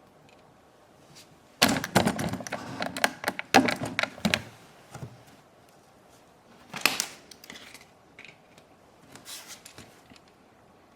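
A rapid clatter of small clicks and taps from small tools and tiny parts being handled on a work surface, with one sharper knock a few seconds later and a lighter patter of taps near the end.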